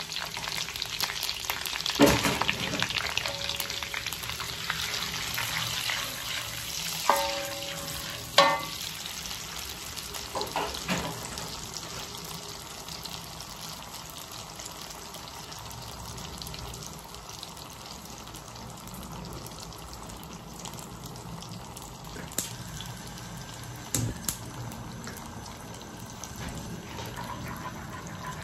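Food frying in hot oil in a wok, a steady sizzle stirred with a spoon that knocks and clinks against the pan now and then. The sizzle quietens after about twelve seconds, once chopped red vegetables are in the oil.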